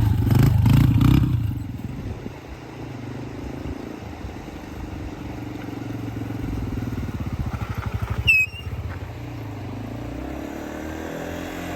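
Dirt bike engine running, loudest in the first second or so, then building gradually with a rapid regular pulsing about seven seconds in. A short high chirp about eight seconds in.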